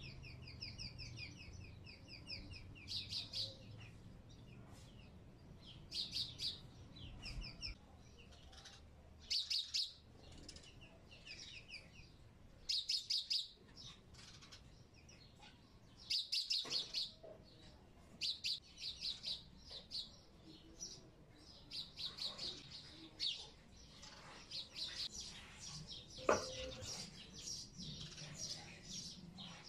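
A small bird chirping and trilling over and over, in quick runs of rapid high notes with short pauses between them. A single knock sounds near the end.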